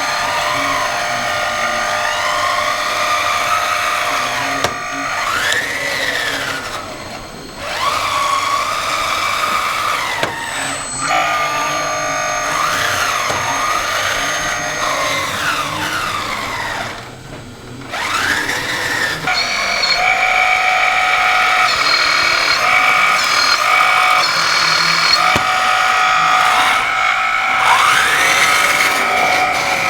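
Whine of the electric motors and gearboxes of radio-controlled model construction machines, several pitches gliding up and down as the motors speed up and slow down. After about two-thirds of the way in, the whine settles into a steadier, higher tone.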